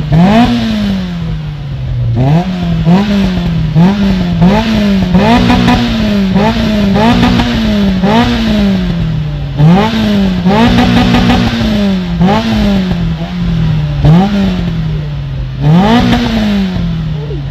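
Car engine revved repeatedly while standing still: a quick series of short throttle blips, each rising sharply in pitch and falling back to idle, with a couple held a little longer.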